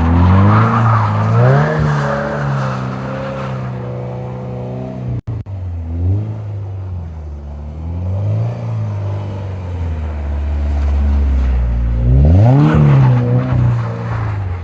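2022 Subaru BRZ's flat-four engine with a Magnaflow aftermarket exhaust, revving up and down over and over as the car spins donuts in snow. There is a brief cut in the sound about five seconds in.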